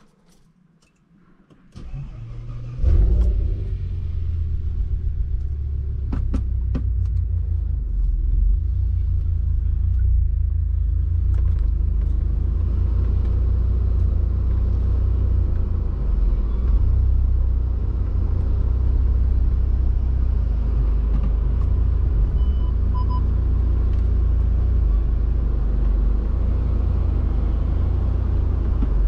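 Audi RS6 C6's twin-turbo V10, fitted with an MTM exhaust and a stage 2 tune, starting up: after a couple of quiet seconds it cranks and catches with a sudden jump in loudness. It then idles steadily with a low rumble, heard from inside the cabin.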